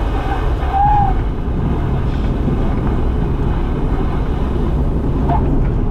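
Cessna 172 engine and airflow heard inside the cockpit: a steady low drone, with a brief short tone about a second in.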